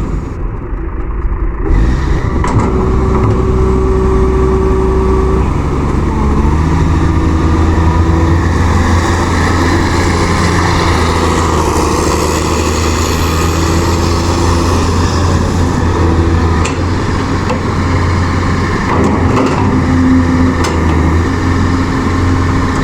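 Backhoe loader's engine running steadily, with a mid-pitched tone above it that shifts in pitch every few seconds.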